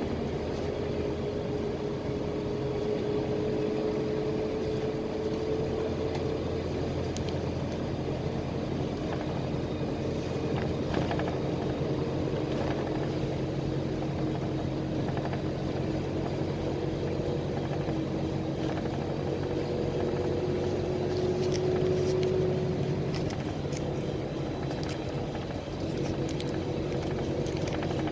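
PAZ-320405-04 Vector Next bus under way, heard from inside the cabin: a steady engine drone and road noise, with a tone that climbs slowly in pitch as it gathers speed. A few light rattles come in the second half.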